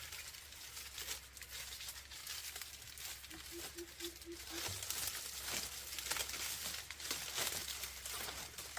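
Dry palm leaves being handled, rustling and crinkling with irregular crackles and small snaps.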